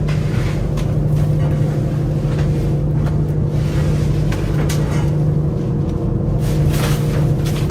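Fishing boat's engine running steadily at a constant pitch, with scattered knocks and clatter on board.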